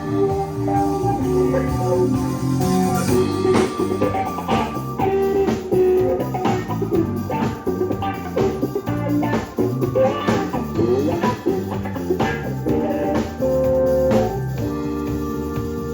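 Band music with guitar and a drum kit playing steadily, with no singing, in a bluesy rock style.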